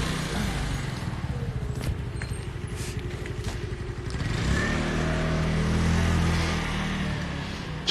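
A car running, heard from inside: steady engine and road rumble, with the engine hum growing stronger about halfway through.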